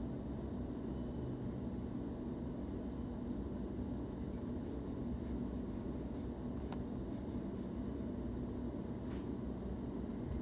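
Steady low rumble and hum inside a suburban electric train carriage as the train slows along the platform and comes to a stop, with a few faint ticks.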